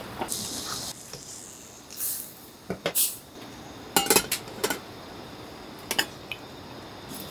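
Dishes and cutlery being handled: a few sharp clinks and knocks, with short hissing sounds in between.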